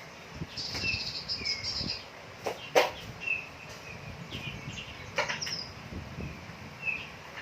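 Small birds feeding, with short chirps every second or two and a brief burst of high twittering near the start. A few sharp clicks are mixed in, the loudest a little under three seconds in.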